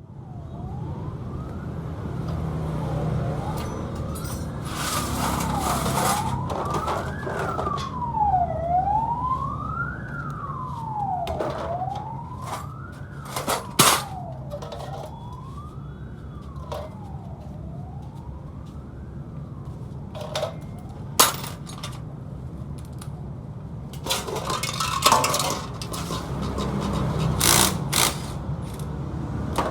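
A siren wailing, its pitch rising and falling about once every second and a half, then fading out about two-thirds of the way through. Underneath it is a steady low rumble, broken by several sharp knocks or clanks, the loudest around halfway and about two-thirds of the way in.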